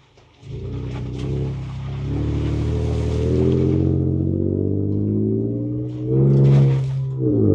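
Ford Ranger Raptor's 3.0-litre twin-turbo V6 pulling away about half a second in, heard from inside the cab. Its note rises and holds steady, then swells again twice near the end as the throttle is opened.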